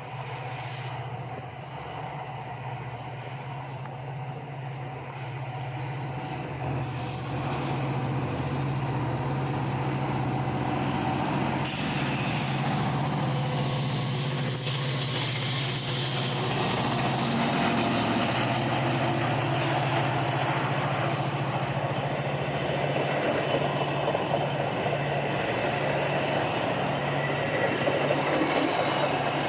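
A train approaching and passing, its locomotive's engine a steady low drone that grows louder, with the broad rumble and clatter of the rail cars building through the second half.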